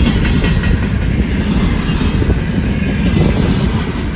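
Container flatcars of a freight train rolling past close by: the steady, loud rumble of steel wheels running on the rails.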